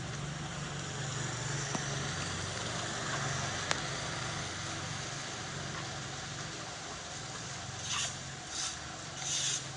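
A steady low motor hum, like an idling engine, over a constant rushing noise, with three short swishing scrapes near the end.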